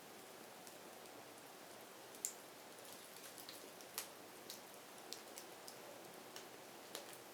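Wood fire crackling: a faint steady hiss with irregular sharp pops and snaps, the loudest about two and four seconds in.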